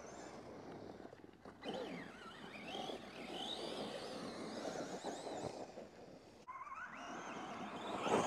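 Arrma Gorgon RC truck's 3800kV brushless motor whining as it is driven, its pitch rising and falling with the throttle, over a rough noise of the truck running across dirt.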